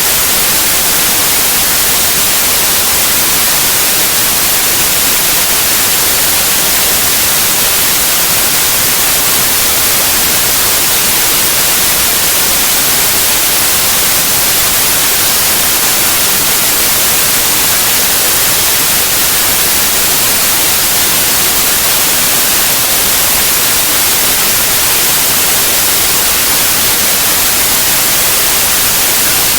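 Steady, loud white noise: an even hiss with no change, brightest in the high end.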